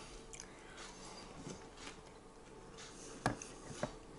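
A person eating a mouthful of chips with sauce: faint chewing and mouth sounds, with two sharp clicks a little over three seconds in.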